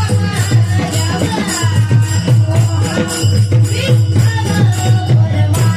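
Varkari kirtan music: a voice singing a gliding devotional melody over regular clashes of small hand cymbals (taal) and a steady low drone.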